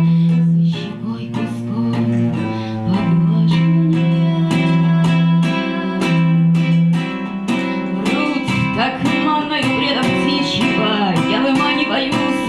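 Live acoustic music: plucked and strummed acoustic guitar under long held low cello notes.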